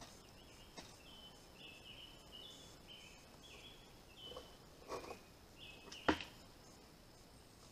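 A songbird singing a long run of short, clear notes that step up and down in pitch, over a steady high insect whine. A few knocks and rustles from handling the barrel's filter cloth and plastic lid, the sharpest about six seconds in.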